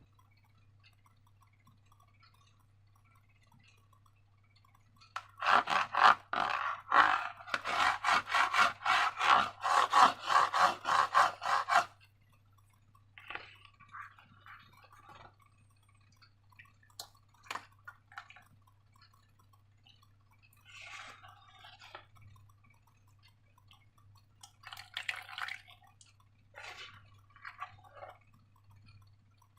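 Slime being worked by hand: after a few quiet seconds comes a quick run of regular rubbing, squishing strokes, about four a second, for some seven seconds, then scattered softer squelches and rustles.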